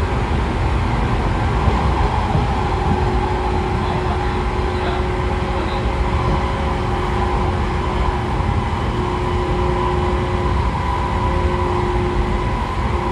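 Running noise inside a 113 series electric train's motor car: low wheel and bogie rumble, with the steady whine of its MT54 DC series-wound traction motors and gears. The whine settles in at two steady pitches a couple of seconds in.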